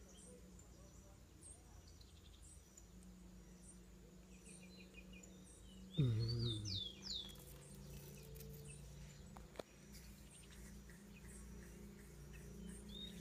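Small birds chirping in short runs of sharp, falling high notes, over a steady low hum. About six seconds in, a brief louder low sound drops in pitch as the chirps come again.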